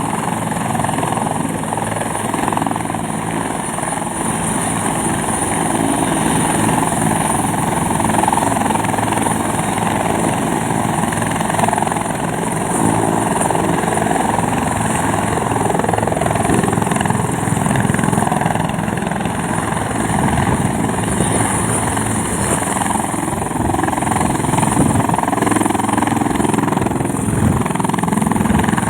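Helicopter running with its rotor blades chopping fast and steadily and the engine whining, at an even loudness throughout.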